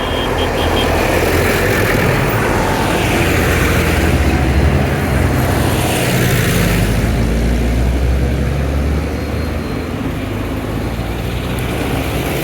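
Vintage tractor engines running as tractors drive past, the sound swelling in the middle and easing off slightly after about nine seconds.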